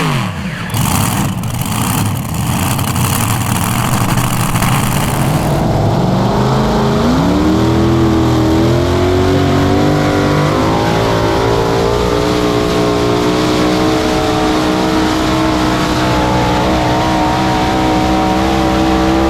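Modified pulling tractor engines under full load: noisy for the first few seconds, then the engine pitch climbs about six seconds in and holds high and steady, as during a pull down the track.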